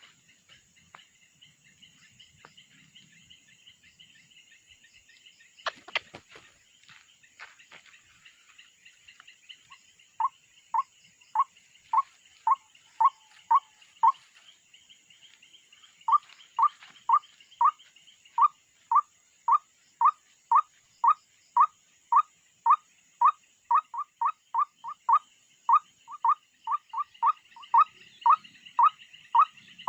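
A bird calling in a long, regular series of short, falling notes, about two a second, starting about ten seconds in with a brief pause partway through. A steady high chirring runs underneath, and a single sharp knock comes about six seconds in.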